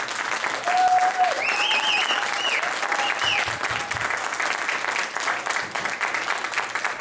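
Audience applauding, with a few cheers or whoops rising over the clapping in the first few seconds.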